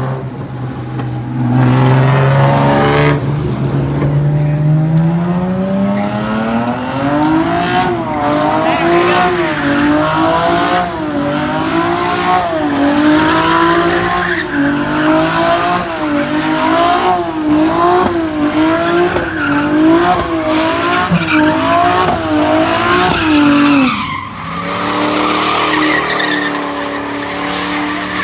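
A car engine revving up, then held at high revs that rise and fall about once a second while the tyres squeal, as in a burnout or donuts. The revs drop suddenly near the end, leaving the tyre squeal.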